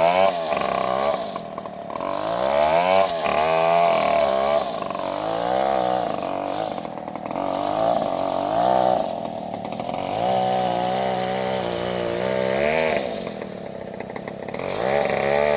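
Small engine of a saw running, its pitch sweeping up and down again and again, with a few brief quieter dips.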